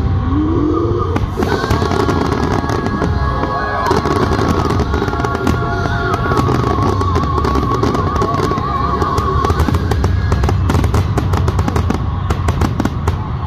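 Aerial firework shells bursting in a rapid, continuous barrage of bangs and crackles, with pop music playing underneath. The bangs come thickest in the last few seconds.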